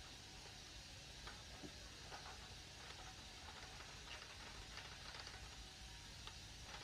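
Faint, scattered light clicks and taps of small parts being handled during a laser printer teardown, more of them from about two seconds in, over a steady low hiss.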